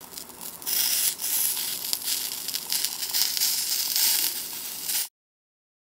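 Chicken frying in oil in a miniature wok, a crackling sizzle that grows louder within the first second and cuts off suddenly near the end.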